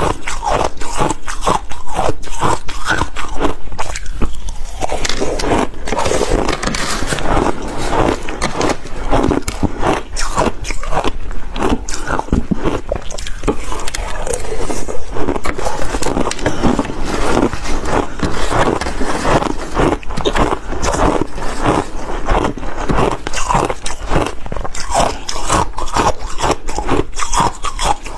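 Ice being bitten and chewed: a dense, continuous run of sharp crunches and cracks.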